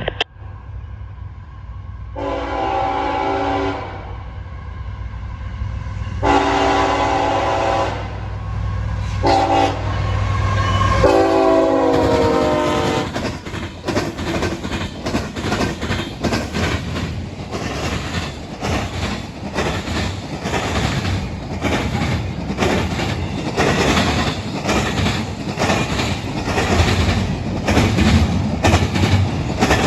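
Locomotive air horn sounding the grade-crossing signal of two long blasts, a short and a long over the low rumble of the diesel engine. Then the train rolls past with a steady clickety-clack of wheels over the rail joints.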